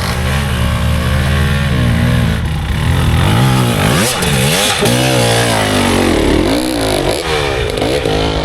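Dirt bike engine revving hard, its pitch rising and falling in several quick swells as the throttle is worked on and off.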